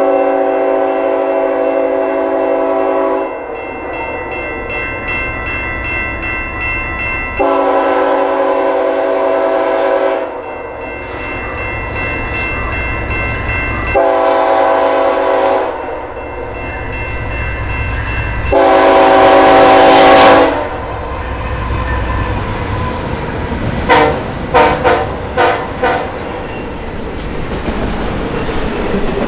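Freight locomotive's multi-note air horn sounding the grade-crossing signal: long, long, short, long, with the last blast the loudest. The train then rumbles past, with a few sharp clacks of wheels over rail joints.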